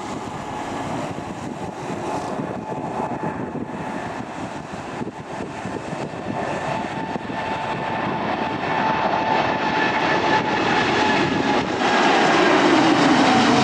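Jet airliner's engines, a steady rumble with a whine, growing steadily louder as the aircraft comes closer.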